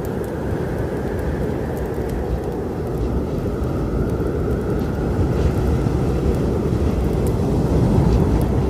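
Low, dense storm rumble that swells slightly toward the end, with a few faint, sharp crackles of a wood fire over it.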